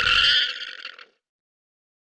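Alpaca call: a high, rasping sound that stops about a second in.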